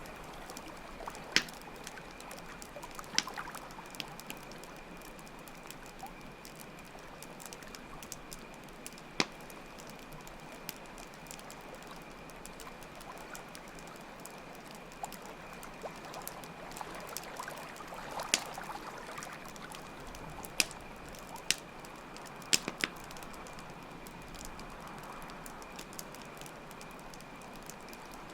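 Campfire crackling, with a handful of sharp pops scattered through, over a steady trickle of flowing water and a continuous high cricket trill.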